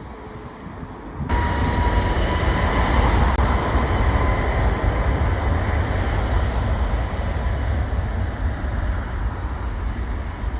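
Jet aircraft engines running at high power: a loud, steady rush with a low rumble and a thin whine over it, coming in abruptly about a second in.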